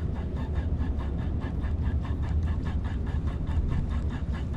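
A fishing reel being cranked, an even rapid ticking about five times a second, over a steady low rumble of wind on the microphone.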